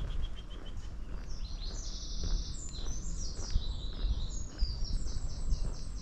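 A songbird singing a long, rapid, high-pitched song of fast repeated notes and trills, starting about a second in, over a low outdoor rumble.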